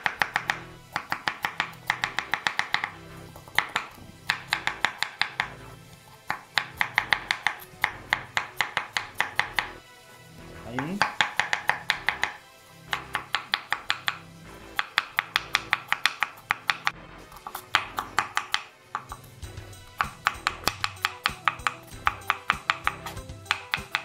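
Kitchen knife slicing vegetables thinly on a cutting board: quick runs of sharp chopping strokes, several a second, broken by short pauses.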